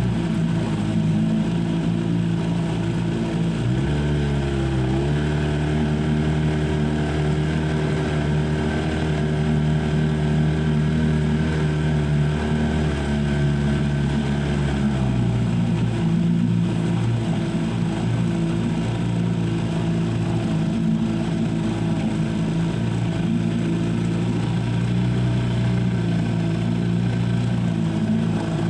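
Boat engine running steadily under way, its pitch shifting about four seconds in and again around fifteen seconds in as the engine speed changes.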